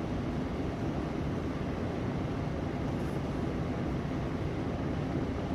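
Steady low rumbling background noise with a hiss over it. It holds an even level throughout, with no clear tones or distinct events.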